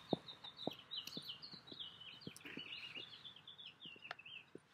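A songbird singing a long, rambling run of quick chirping notes, with soft low thumps about twice a second underneath.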